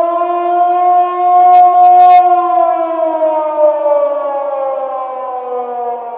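Siren wailing: a single pitched tone held steady, then slowly sliding down in pitch.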